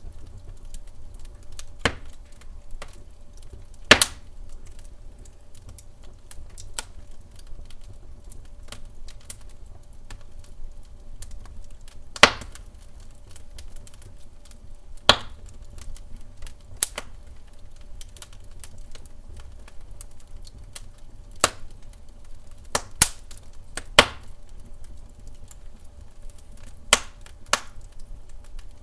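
Wood fire crackling in a fireplace: irregular snaps and pops, with a few sharp louder ones, over a low steady rumble.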